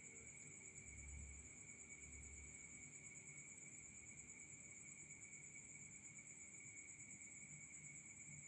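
Near silence, with a faint, steady high-pitched chirring of insects in the background.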